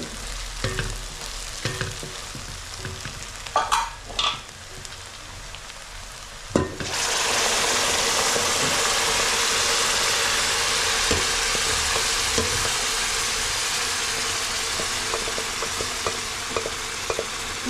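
Onions frying softly in oil in a wide metal pot, with a few clinks of metal. About seven seconds in, a loud, steady sizzle starts suddenly as pressure-cooked beef and its masala gravy are poured into the hot oil.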